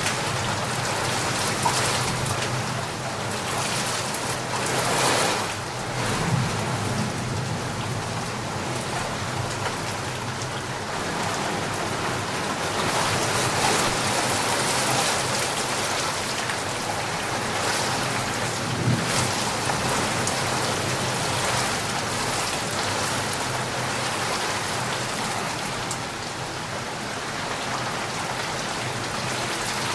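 Steady heavy rain falling, a continuous hiss of drops on surfaces that swells and eases a little, with a few brief louder spatters.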